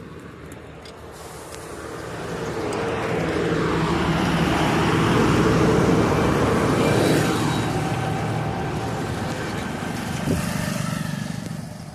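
A motor vehicle passes by on the road. Its engine and tyre noise swells to a peak about halfway through, the pitch falls as it goes by, and then it fades over a steady low hum. A short knock comes near the end.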